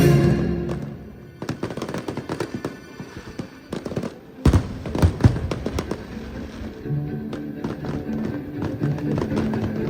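Fireworks going off: a rapid run of crackling pops, with two loud bangs about four and a half and five seconds in. Music fades out at the start and comes back in about two-thirds of the way through, under the crackle.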